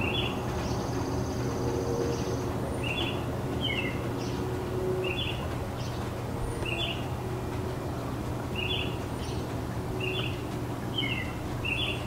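A garden bird repeating a short, high chirp roughly once a second, over a steady low hum from the surrounding city.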